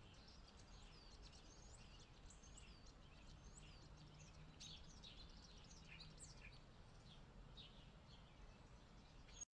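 Faint chorus of small birds chirping, many short high calls overlapping, some falling in pitch, over a faint low hum; it cuts off abruptly at the very end.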